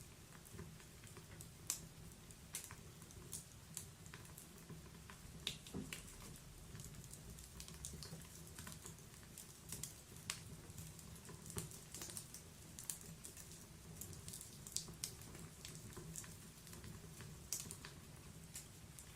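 Log fire crackling in a fireplace: irregular sharp pops and snaps, a few each second at random, over a low steady background.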